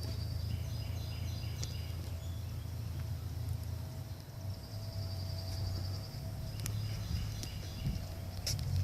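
Woodpecker drumming on a metal stop sign: a rapid, ringing roll at the start and a second roll about four and a half seconds in.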